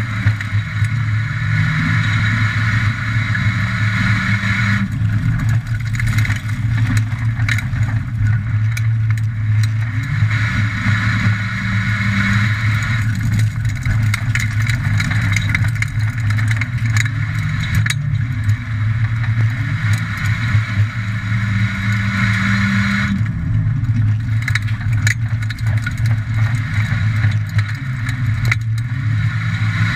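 Streetcar engine heard from inside the cabin while racing laps of a dirt speedway. The engine note rises and falls in a repeating cycle every eight seconds or so, pulling down the straights and easing through the turns, with scattered rattles and knocks from the car.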